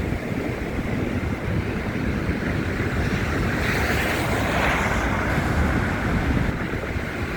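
Wind rumbling on a handheld phone's microphone over a steady rush of traffic noise. A hiss swells and fades about four seconds in.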